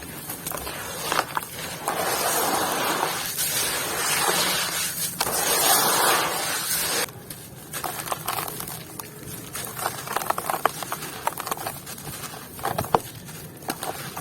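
A dry, crunchy material being crumbled, with a dense crumbling hiss for the first seven seconds or so. It then drops to quieter, scattered crackles and crunches.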